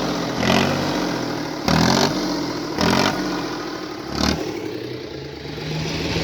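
A motor vehicle's engine revving in repeated surges, about one every second or so, with the pitch shifting between them.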